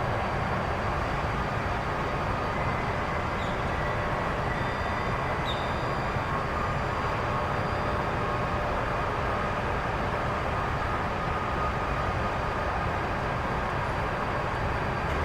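Steady jet aircraft engine noise: a constant rumble with faint, steady whining tones above it.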